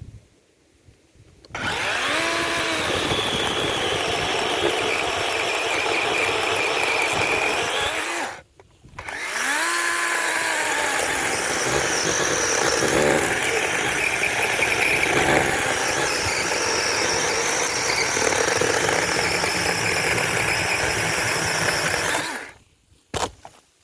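DeWalt 18-volt cordless chainsaw's electric motor spinning up and cutting through a solid log over half a foot thick. It runs for about six seconds, stops briefly, then spins up again and cuts for about thirteen seconds more before stopping.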